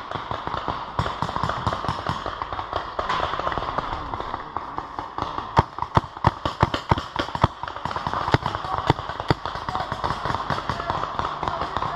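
Paintball markers firing during a game: a string of sharp pops. They come fastest and loudest from about five and a half to nine and a half seconds in.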